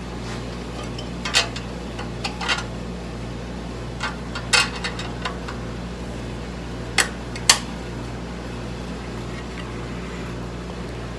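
Half a dozen short metallic clinks and taps, the loudest two close together near the middle and two more a half second apart later on, as tools and metal parts are handled on a scroll saw, over a steady low hum.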